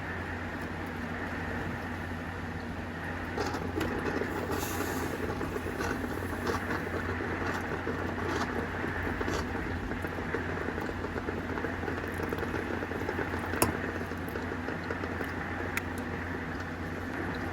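Steady rain falling during a hurricane, with scattered drops ticking and one sharper tick about three-quarters of the way through.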